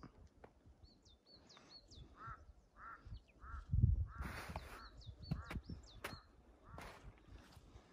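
Birds calling: many short, high chirps that hook up and down in pitch, and a run of three lower calls about half a second apart a couple of seconds in. Low buffeting on the microphone comes and goes, loudest about four seconds in, with a few sharp clicks.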